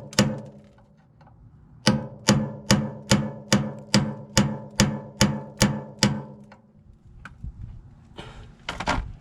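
A hammer striking metal in an even run of ringing blows, about two and a half a second, after a single blow and a short pause. Near the end comes a brief rasping scrape.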